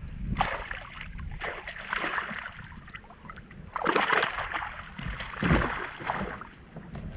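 Water splashing and sloshing against a kayak in irregular bursts, the loudest about four and five and a half seconds in, over a low rumble of wind on the microphone.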